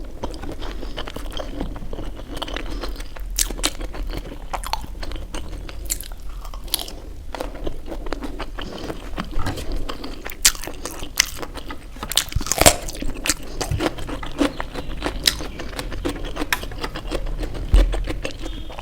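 Close-miked eating: crunchy bites and chewing, with many sharp crunches, the loudest about two-thirds of the way through.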